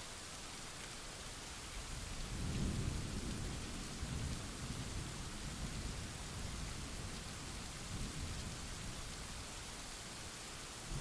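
Steady rain hiss with a roll of distant thunder that rumbles up about two seconds in, peaks soon after and fades away in waves over several seconds.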